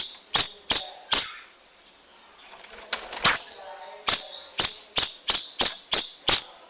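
Cucak rawis songbird making about a dozen sharp, snapping clicks, each with a short high hiss. A few come in quick succession, then there is a pause of about two seconds, then a faster run of clicks about twice a second, with faint chirps underneath.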